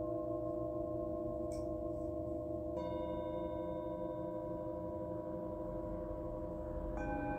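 Singing bowls ringing in long, overlapping sustained tones. A bowl is struck about a third of the way in and another near the end, each adding a new ringing note over the ones still sounding.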